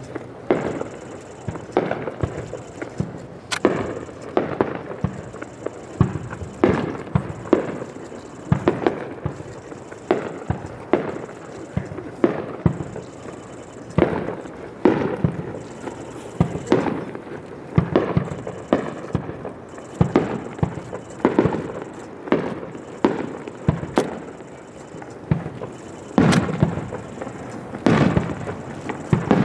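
Fireworks display: aerial shells bursting in steady succession, about one or two bangs a second, each bang trailing off in a rumble.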